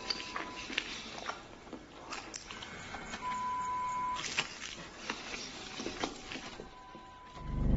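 Scattered clicks and knocks with three steady electronic-sounding beeps, the longest lasting about a second. A loud low hum swells in near the end.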